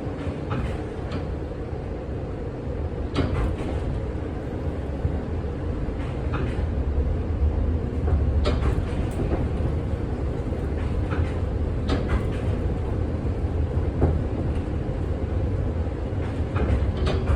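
1948 Philadelphia PCC streetcar rolling slowly around a curve: a steady low rumble from the car, with a scattering of sharp clicks and knocks from the track and running gear.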